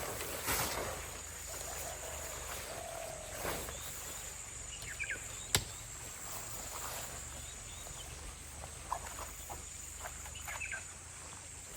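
Forest creek ambience: a steady hiss of running water with insects trilling high and on and off, and a few short bird chirps. A sharp click about five and a half seconds in, and a few soft ticks near the end.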